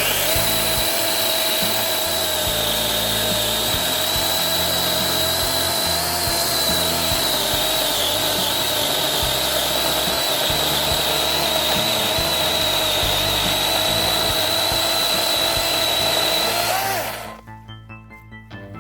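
DeWalt DCCS620 cordless electric chainsaw cutting through a roughly 6-inch oak log: a steady high whine from the motor and chain that starts at once, wavers and dips slightly in pitch under load midway, and stops abruptly about seventeen seconds in.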